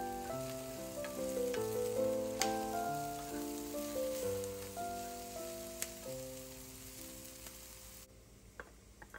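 Diced onion, garlic and mushrooms sizzling as they fry in butter in a pan, with a few clicks from a wooden spatula stirring them. The sizzle cuts off about eight seconds in. A gentle background melody of single notes plays throughout.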